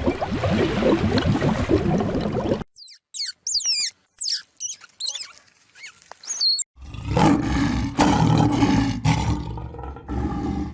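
Animal calls in three parts. First a dense low call, then a few seconds of sharp, high sliding chirps and squeaks, then another low call with a steady pitch.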